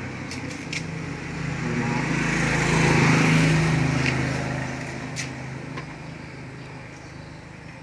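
A motor vehicle passing by. Its engine hum swells to a peak about three seconds in and then fades away, with a few light clicks along the way.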